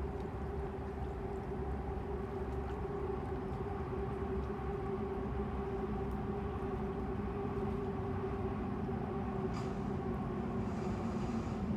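A steady mechanical drone, a constant low hum with a sustained tone, over riverside rumble, with a brief click near the end.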